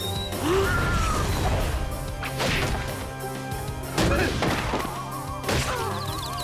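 Cartoon fight sound effects: three hard crashing hits about a second and a half apart, over a steady action music score.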